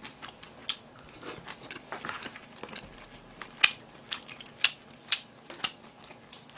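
A person chewing a mouthful of food, with sharp wet mouth clicks about twice a second in the second half.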